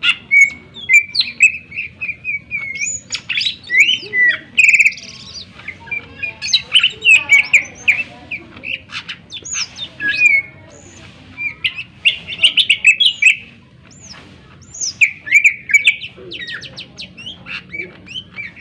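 Greater green leafbird (cucak ijo) singing a loud, varied song of sharp whistles, quick rising and falling notes and rapid chattering trills, with a couple of short pauses.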